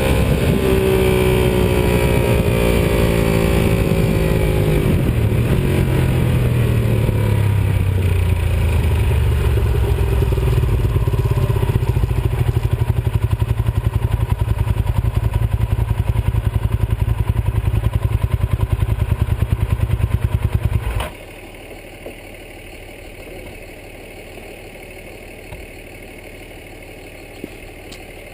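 Ducati 748R's L-twin engine slowing down, its pitch falling over the first few seconds, then idling with a steady pulsing beat. About three-quarters of the way through it cuts off suddenly, leaving only a faint hiss and a few small clicks.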